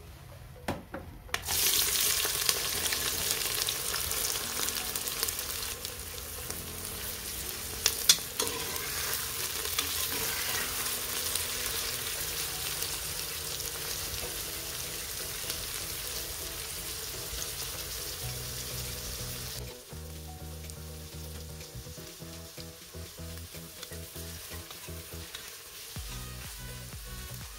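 Food sizzling as it fries in hot oil in a pan while being stirred, with a few sharp knocks of a utensil, the loudest about eight seconds in. About twenty seconds in the sizzle drops to a much lower level.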